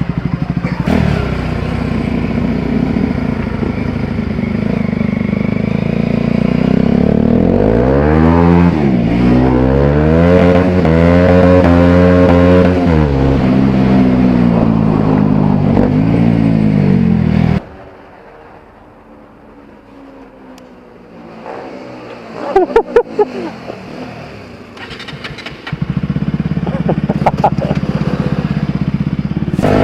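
Bajaj Pulsar 200 single-cylinder motorcycle engine with an aftermarket Akrapovic exhaust, revving up and down. About two-thirds of the way in the engine sound cuts off suddenly, leaving a quieter stretch broken by a few sharp pops. The engine sound returns loud near the end.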